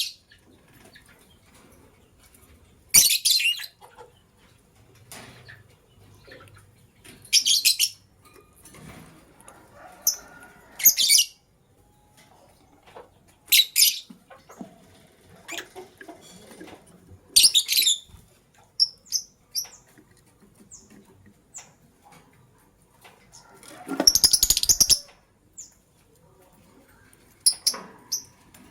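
Lovebirds giving loud, sharp, high-pitched chirps in short bursts every few seconds, with a few softer, thinner chirps between them. Near the end comes a longer, noisier flurry that reaches low, like a flutter of wings.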